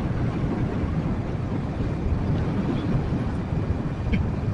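Wind rushing over the microphone with the steady running of a Yamaha Jupiter MX 135 motorcycle's single-cylinder four-stroke engine while riding at a constant pace.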